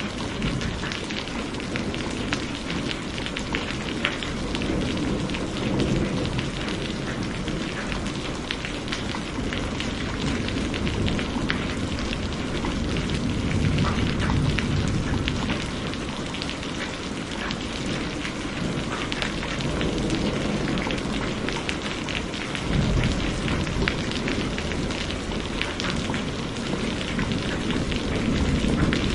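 Steady heavy rain pattering on a surface, with low rolls of thunder rumbling through it, swelling a couple of times and growing louder near the end.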